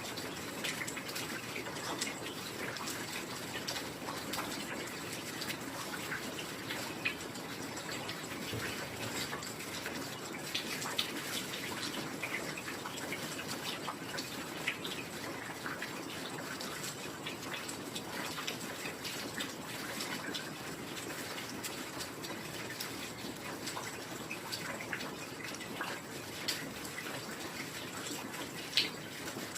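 Steady rain: an even hiss of falling rain with scattered sharper drop and drip impacts, a few of them standing out louder now and then.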